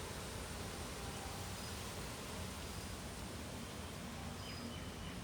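Strong wind blowing steadily: an even, continuous rushing noise.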